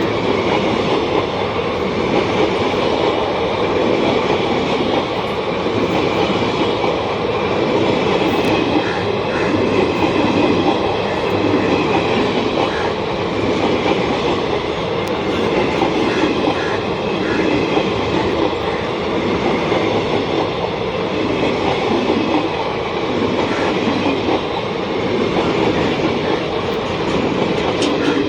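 Freight train passing at speed: a steady rumble of wagons with a rhythmic clatter of wheels over the rail joints that keeps repeating.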